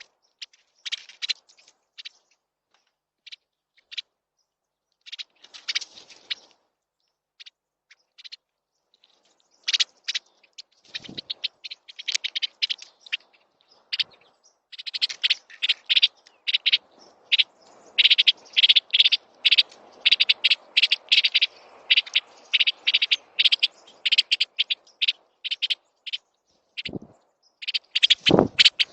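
Small songbirds at a feeder chirping: scattered short, high calls at first, becoming a dense, rapid chatter from about halfway. A few low thumps are heard, one in the first half and two near the end.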